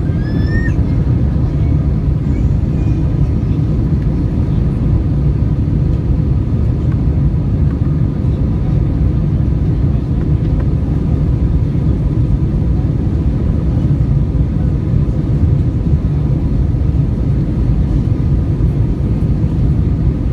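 Steady, loud cabin noise of a jet airliner climbing after takeoff: a constant low rumble from the engines and airflow, with a faint steady whine on top. A brief rising chirp sounds about half a second in.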